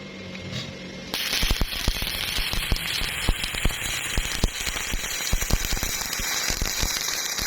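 Welding arc crackling and sputtering with many sharp pops, on thin-walled hollow tubing; it strikes about a second in and cuts off abruptly near the end.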